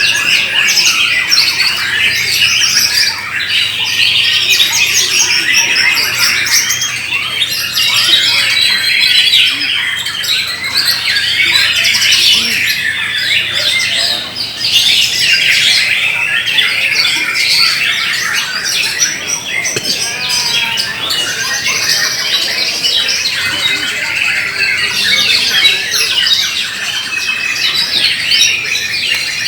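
Many caged white-rumped shamas (murai batu) singing at once in a contest, a dense, unbroken mix of overlapping whistles and trills.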